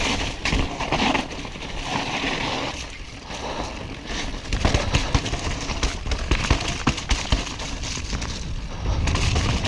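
Mountain bike riding down a wet, muddy trail: tyres splashing through mud and water, with frequent sharp knocks and rattles from the bike over rough ground.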